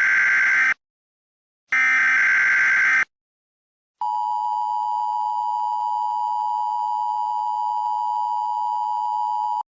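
Emergency Alert System tones for a tornado watch. First come two harsh, screeching data bursts of the digital alert header, about a second apart. After a short pause, a steady electronic attention tone holds for about five and a half seconds before cutting off.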